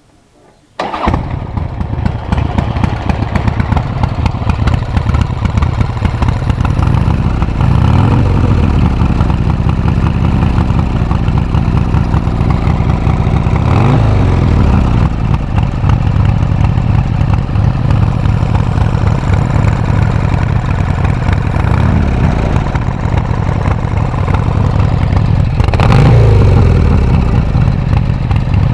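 Buell motorcycle engine starting up about a second in, then running loudly, with a few short revs of the throttle that rise and fall in pitch.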